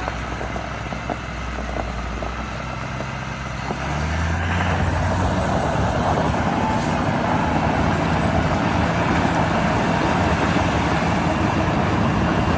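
A heavy vehicle engine running, growing louder and steadier about four seconds in as it comes under more power or draws nearer.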